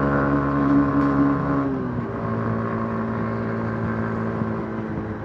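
Yamaha MT-15's single-cylinder engine through its stock exhaust, running steadily under way. About two seconds in the revs fall, and it carries on at a steady lower pitch.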